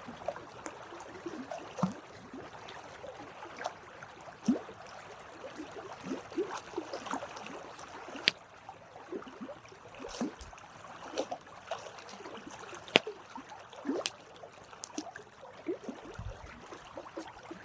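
Campfire of burning wood crackling, with irregular sharp pops and snaps over a low steady hiss.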